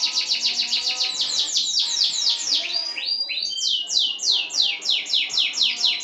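A young domestic canary singing a rapid roll of repeated downward-sweeping notes. About halfway through there is a brief break with a couple of rising notes, then the roll resumes at a slightly slower pace.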